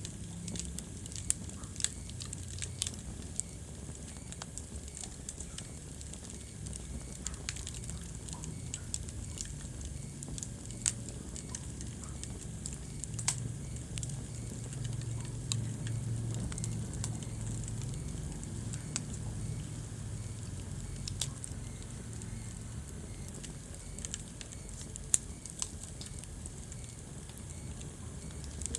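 Wood fire crackling in a fireplace: irregular sharp pops and snaps over a low steady rumble of the flames, with a few louder pops.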